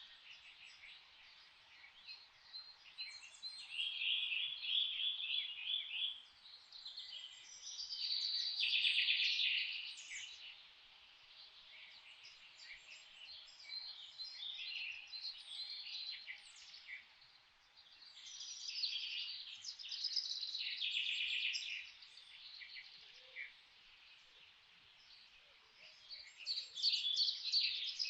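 Songbirds singing in a forest: phrases of fast trilled notes come every few seconds, loudest about 8 to 10 seconds in and again near the end.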